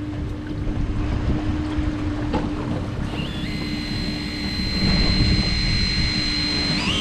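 A boat at sea: a steady engine hum with wind buffeting the microphone and water noise. From about three seconds in, a high thin whine joins it and steps up in pitch a couple of times.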